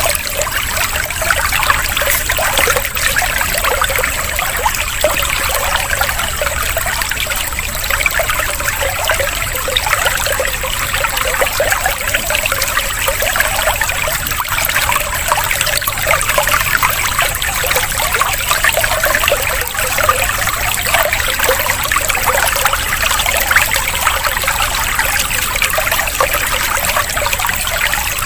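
Water trickling and splashing steadily, like a small stream or fountain, without letup.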